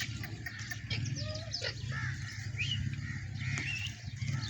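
Birds calling and chirping, many short calls overlapping, over a steady low hum.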